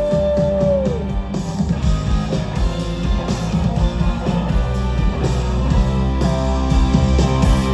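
Live rock band playing an instrumental passage, guitar to the fore over bass and drums; a long held note slides down and stops about a second in.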